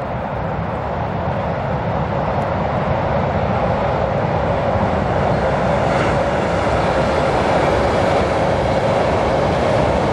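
Intercity passenger train running over a steel truss railway bridge and along the line past the listener, a continuous rumble of wheels on rails that grows steadily louder as it approaches.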